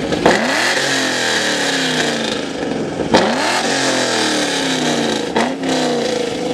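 Car engine revved hard three times, each rev jumping up quickly and sinking slowly back, through an exhaust that the owner says is valved.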